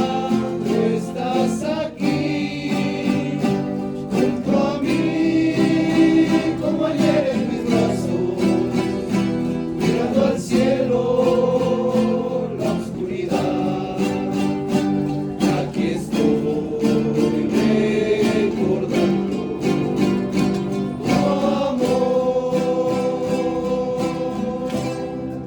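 Several voices singing together in harmony over strummed guitars, holding long notes.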